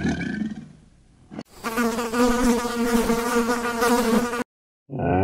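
A flying insect buzzing with a steady, even hum. It cuts in abruptly about a second and a half in and stops suddenly near the end. Before it, the tail of another animal sound fades out.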